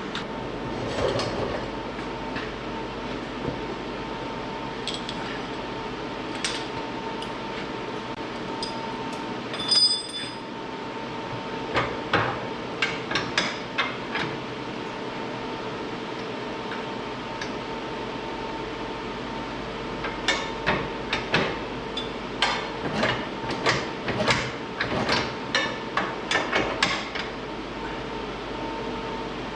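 Metal clanks and clicks from a snow plow being hooked up to a side-by-side UTV, coming in bunches with one ringing clink about ten seconds in, over a steady hum.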